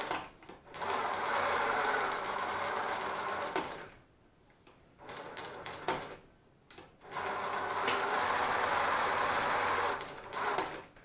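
NMD-2312D heavy-duty walking-foot zigzag industrial sewing machine stitching in bursts. It runs steadily for about three seconds, stops, makes a short run, and runs again for about three seconds, with a brief last spurt near the end.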